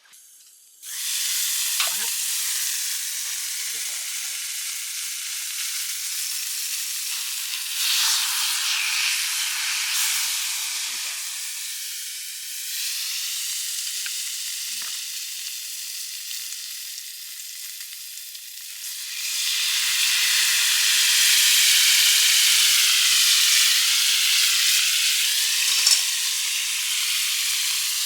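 A thick cut of beef sizzling as it sears, starting about a second in and growing louder past the middle, with a few small pops.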